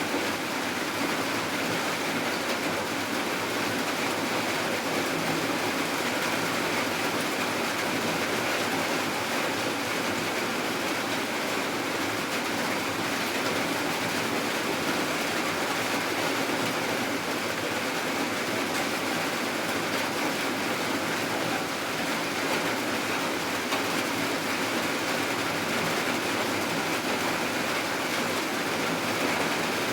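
Steady rainfall, an even hiss of rain with no thunder or other events.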